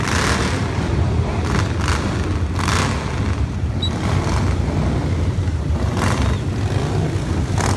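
Many motorcycle engines running together in a continuous low rumble as bikes ride past, with short rushes of noise several times.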